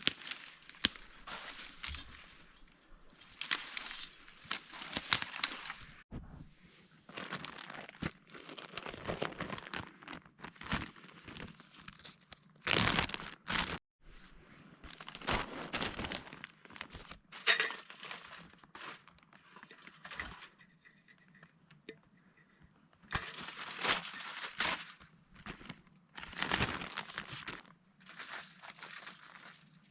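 Crinkling and rustling of material being handled, in irregular bursts with short pauses between.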